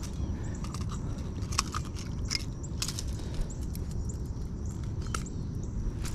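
Irregular sharp clicks and light crackling over a steady low rumble: fishing-gear and handling noise as a small bass is reeled up and landed in a kayak.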